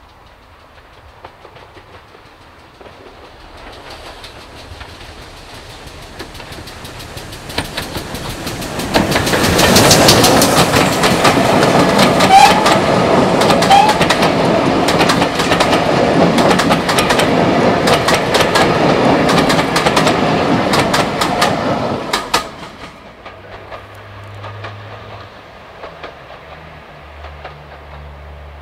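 Steam-hauled passenger train approaching, then passing close by, wheels clicking rapidly over the rail joints for about thirteen seconds. The sound drops off sharply as the train goes by.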